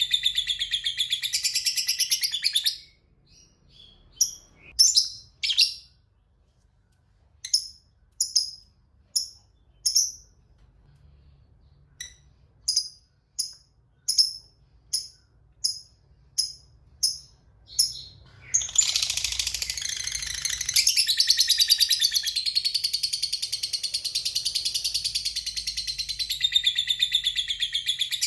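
Lovebird giving its 'ngekek', a long, rapid, high-pitched chattering trill, which breaks off about three seconds in. After a pause comes a string of single sharp chirps, a little more than one a second, and then about two-thirds of the way through the long chattering trill starts again and keeps going.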